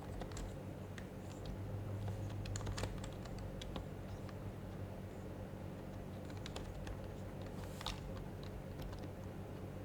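Typing on an HHKB Professional HYBRID Type-S keyboard, its silenced Topre keys clicking softly in uneven runs with pauses, the busiest stretch in the first few seconds and another short run later. A steady low hum lies underneath.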